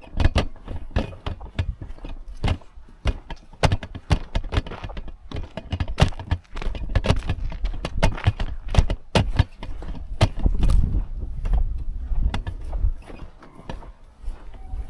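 Footsteps crunching and snapping through dry twigs and leaf litter on a woodland floor: irregular sharp cracks several times a second over a low rumble.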